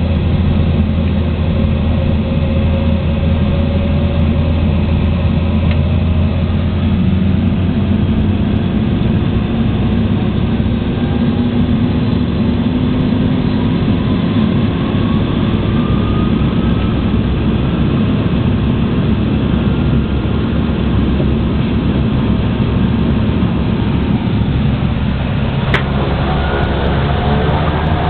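Propeller aircraft's engines and propellers droning steadily, heard from inside the passenger cabin. A fainter tone rises slowly in pitch through the first half, and there is a single click near the end.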